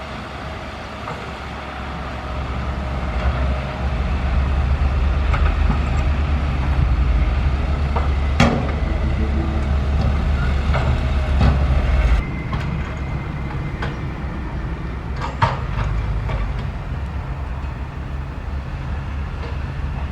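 A SANY SY135F hydraulic excavator's diesel engine runs steadily and works harder for several seconds, then eases off abruptly a little after the middle. A few sharp metallic clanks stand out, the loudest about eight seconds in.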